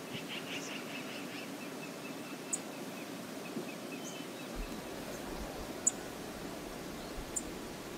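Outdoor wilderness ambience: a steady low rush of background noise with scattered faint bird chirps, including a quick run of bird notes in the first second or so. A low rumble joins about halfway through.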